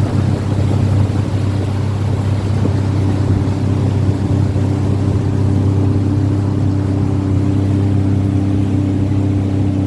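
Jet ski engine running steadily at an even speed while crossing floodwater, its hum holding one pitch throughout.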